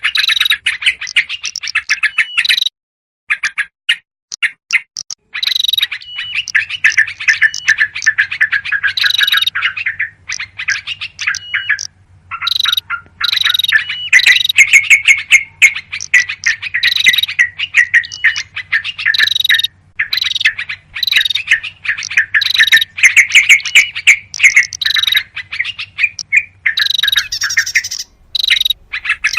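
Bird-lure recording of many small birds calling at once: rapid, overlapping chirps, chatter and short trills of noisy yellow-vented bulbuls mixed with other small songbirds. The calls break off briefly twice.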